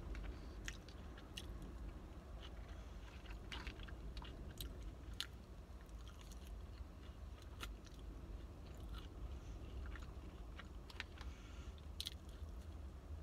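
Close-up chewing and biting of loaded curly fries in cheese sauce, with scattered short mouth clicks and smacks, over a steady low rumble.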